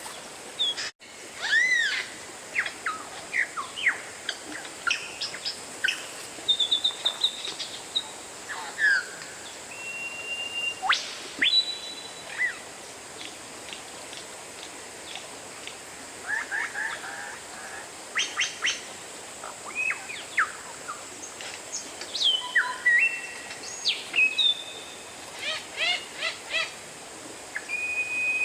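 Oriental magpie-robin singing a varied song of clear whistles, rising and falling sweeps and quick repeated chattering notes, in short phrases with gaps between them. There is a brief dropout about a second in.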